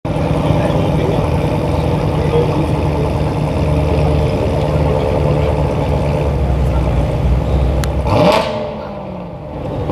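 Chevrolet Corvette Z06's V8 idling, then blipped once about eight seconds in: a quick rise in pitch to a loud peak that falls away as the engine settles.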